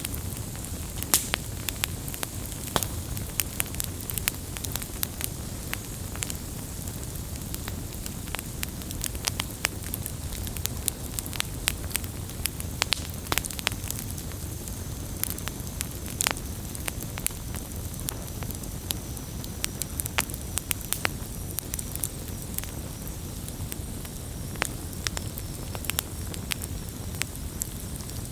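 Wood fire burning: a steady low rumble and hiss with frequent sharp, irregular crackles and pops.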